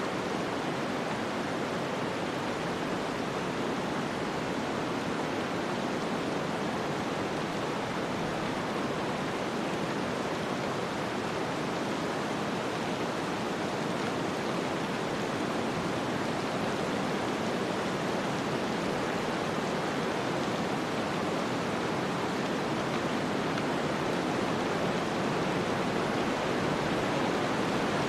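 Snowstorm ambience: a steady, even rush of wind-driven noise with no distinct events.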